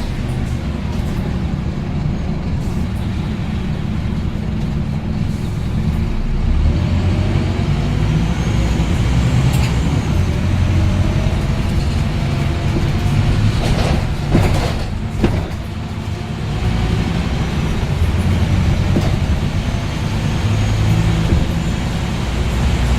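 Scania N230UD double-decker bus engine running steadily under way, with a faint rising whine as it gathers speed. A few sharp knocks or rattles sound about two-thirds of the way through.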